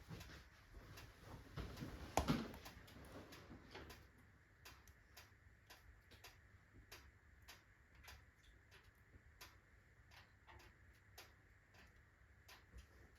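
Wood fire crackling in a fireplace: faint, irregular sharp pops and ticks, with a louder crackle about two seconds in.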